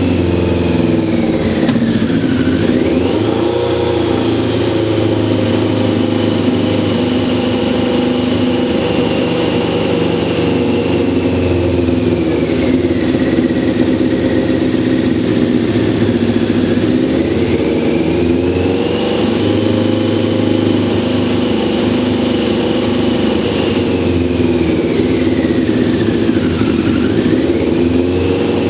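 Kawasaki ZZR1100 inline-four motorcycle engine running after a long lay-up, its speed sagging and slowly climbing back about three times rather than holding a steady idle.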